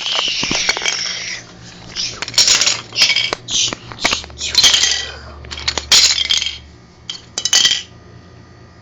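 A run of short clattering, clinking crashes, about one a second, that die away near the end.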